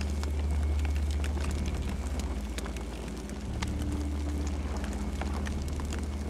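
Campfire burning: irregular crackles and pops of burning wood over a steady low rumble.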